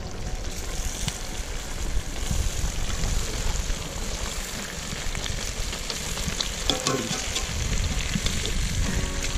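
Meat, onions and whole tomatoes sizzling in a cast-iron cauldron over a wood fire. A slotted spoon stirs and scrapes, clicking against the pan every so often.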